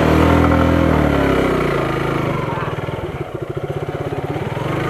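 Motorcycle engine revving with its pitch falling away, then dropping to a low, uneven, pulsing run before picking up again near the end, as the bike works through a muddy ditch.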